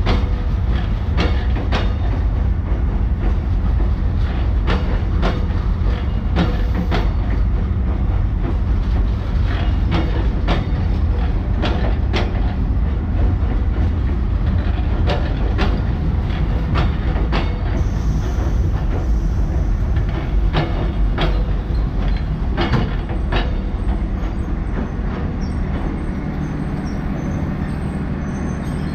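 Train running along the track: a steady low rumble with irregular clacks of the wheels over the rail joints.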